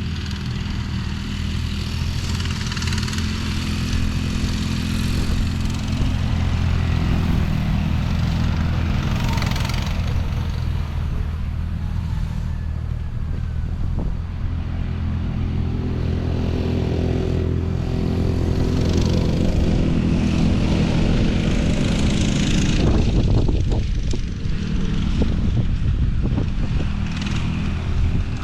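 Small off-road vehicle engine running steadily under way.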